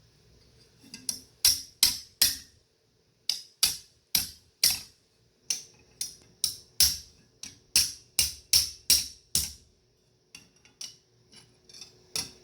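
Hammer blows on metal over an anvil as a strap is forged: sharp ringing strikes about two to three a second in short runs, with a few lighter taps and one last hard blow near the end.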